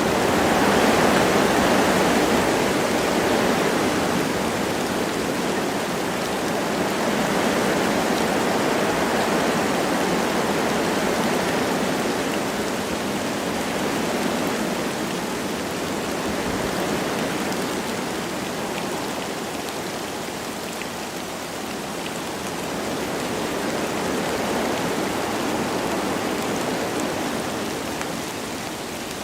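Wind rushing through forest trees with light rain falling, a steady hiss that swells and eases slowly in gusts.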